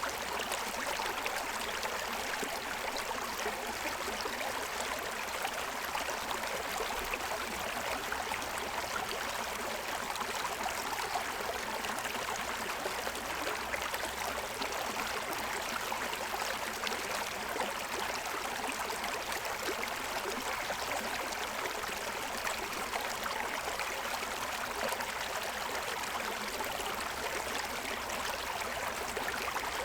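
Shallow stream running steadily over a stony streambed, an even rush of water with no breaks.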